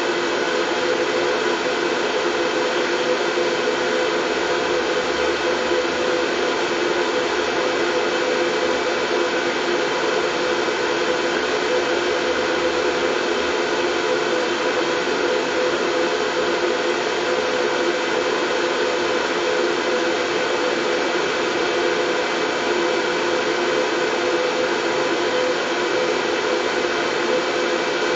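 Steady, unchanging white noise for soothing a baby, with a faint steady hum running through it.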